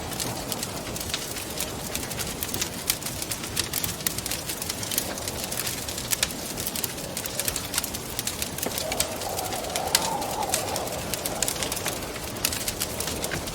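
Wood fire crackling with many sharp pops over a steady hiss, with wind moaning in a wavering tone that rises and falls, swelling about nine seconds in.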